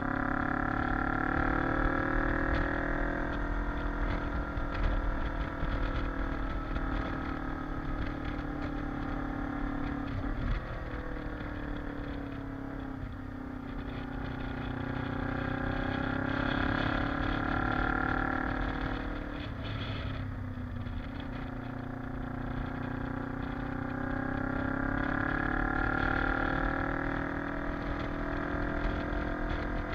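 Kawasaki KLE parallel-twin motorcycle engine under way, its pitch climbing and falling several times as the rider opens and closes the throttle. Low wind rumble runs under the engine.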